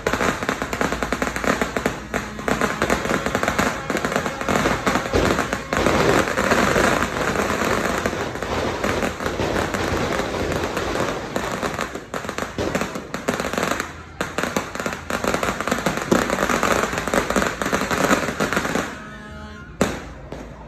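A sinturon ni Hudas, a long string of firecrackers, going off as a rapid, unbroken crackle of bangs. It stops abruptly about nineteen seconds in, followed by one last single bang.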